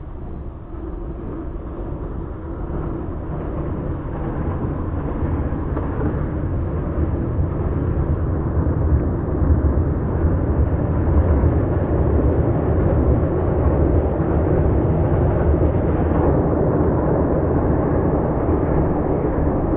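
A boat's engine running with a low rumble, growing louder over the first ten seconds and then holding steady.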